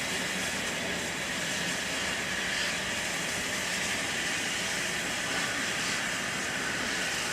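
Steam locomotive giving off a steady hiss of escaping steam.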